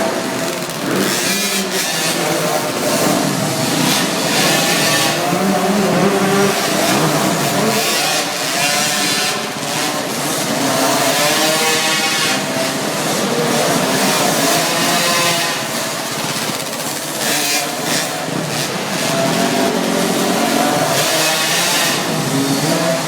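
Motocross bikes running on a track, their engines revving up and down over and over as the riders work the throttle through the course.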